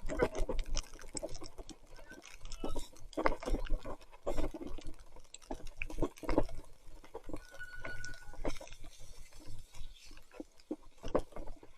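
Mountain bike riding through mud and water in heavy rain: irregular wet splashing and squelching from the tyres and spray, with a short steady squeak about eight seconds in.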